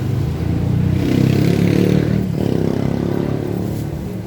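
A motor vehicle engine running close by, swelling about a second in and easing off after about two seconds.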